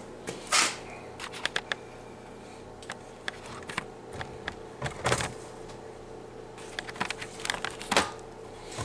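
Scattered light clicks and knocks from metal parts and tools being handled on a workbench, over a faint steady hum.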